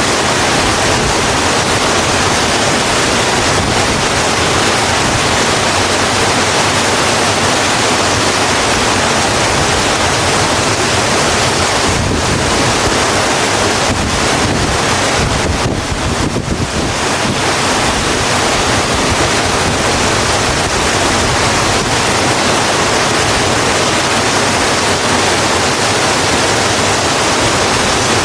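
Steady heavy rainfall, a dense even hiss, with a brief slight dip in level about sixteen seconds in.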